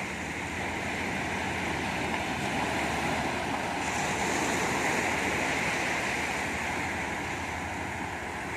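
Sea waves breaking on a beach: a steady rush of surf that swells a little around the middle.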